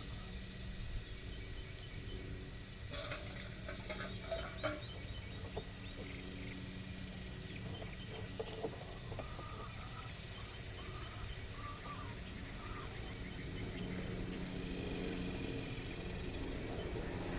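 Farmyard animal sounds: faint bird or fowl calls and chirps, with a few short clicks, over a steady low rumble that grows a little louder near the end.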